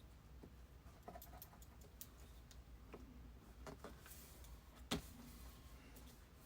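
Near silence: room tone with a low hum, a few faint scattered clicks, and one sharper click about five seconds in.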